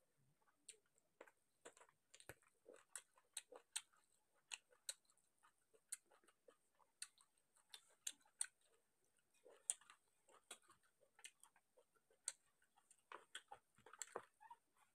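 Faint, close-miked mouth sounds of chewing rice and chicken curry: a string of sharp, irregular wet clicks and lip smacks, a few a second.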